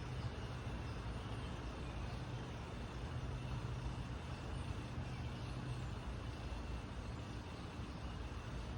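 Steady low rumble of a vehicle engine running at a distance, with a constant droning hum.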